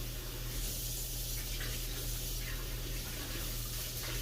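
Kitchen tap running steadily into a sink, an even hiss of water, with a couple of faint clicks of utensils.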